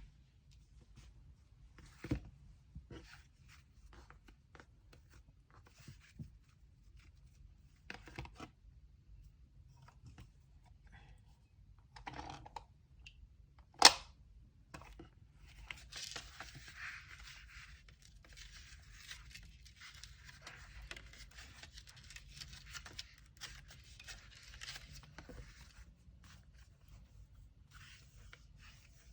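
Packaging materials handled by hand while packing an order: scattered taps and rustles, a sharp click about 14 seconds in, then roughly ten seconds of continuous tearing and rustling.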